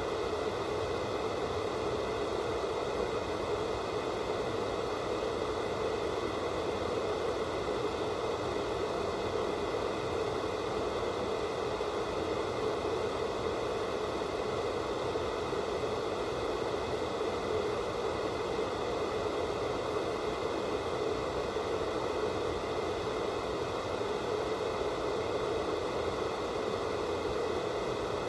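Analog television static from an untuned, no-signal channel: a steady, even hiss with no changes.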